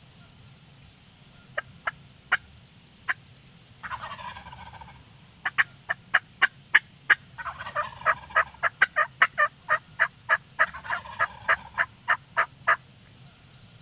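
Wild turkey calling: sharp single clucks that speed up into a fast run of cutting, with a rattling gobble about four seconds in and more gobbling under the fast notes later on.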